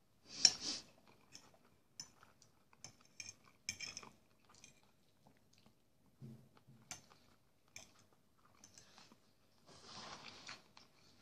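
Close-up eating sounds: a man chewing mouthfuls of fried sausage and porridge, with small wet clicks and a louder noise about half a second in.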